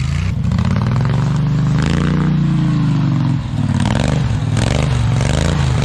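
Built racing lawn tractor engine revving hard, its pitch climbing about two seconds in, then dropping and wavering, with clatter and scraping over it.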